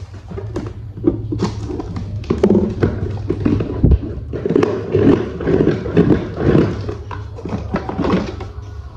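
Hard plastic toy parts being handled and clicked together: an irregular run of clicks and taps over a steady low hum.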